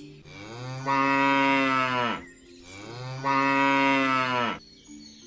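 Cow mooing twice: two long, low calls of about two seconds each, each dropping in pitch at the end.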